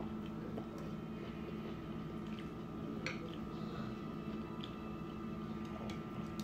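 Close-up wet chewing and squishing mouth sounds of someone eating spaghetti, with a few small clicks from chopsticks against the noodles and plate. A steady low hum runs underneath.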